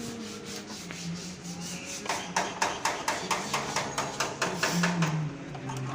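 A quick run of sharp metallic clicks from hand tools working on a Toyota 1ZZ/2ZR-type engine's camshaft and timing adjuster, about five or six a second, starting about two seconds in and stopping about a second before the end, over a steady low hum.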